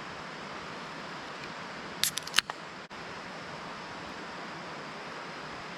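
Pull tab of an aluminium beer can cracked open: a quick cluster of three sharp clicks about two seconds in, over a steady background hiss.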